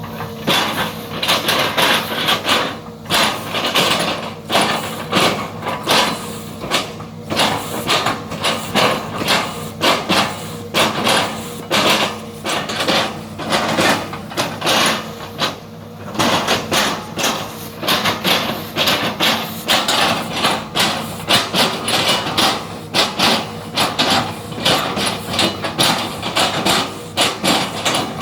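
Excavator engine running steadily under a rapid, irregular series of knocks and thumps, typical of the bucket chopping up oil palm trunks.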